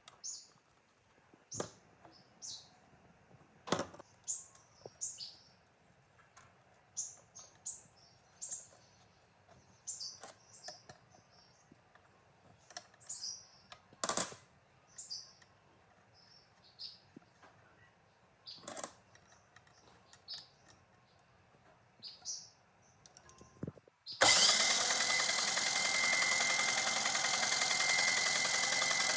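Small birds chirping, with a few sharp knocks, then a power tool starts abruptly about 24 seconds in and runs steadily with a high whine. The tool is the loudest sound.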